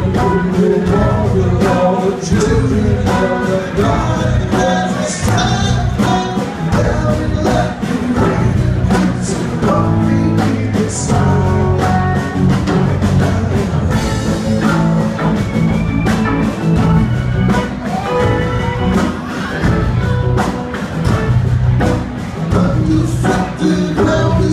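Live rock band playing: electric lead and rhythm guitars, bass guitar, keyboards and a drum kit keeping a steady beat.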